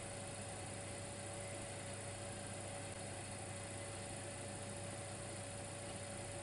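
Dimplex electric fireplace running: a steady electrical hum with a faint constant whine over a low hiss.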